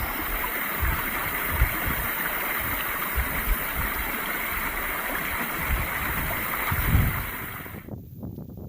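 Steady rushing noise of wind across the microphone, with irregular low buffeting thumps. The hiss cuts off abruptly near the end and the sound gets quieter.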